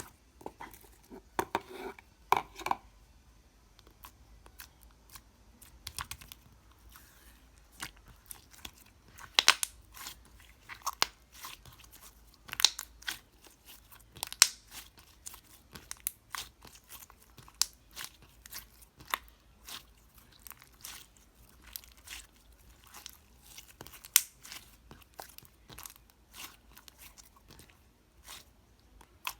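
Slime being squeezed and poked by hand, giving irregular sharp crackles and pops, a few a second.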